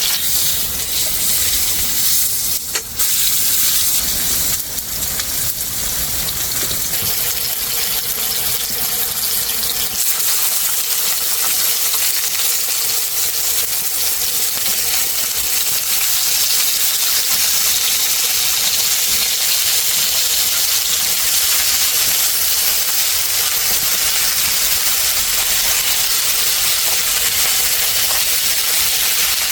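Hanwoo striploin steak sizzling in oil in a hot pan: a steady, loud frying hiss.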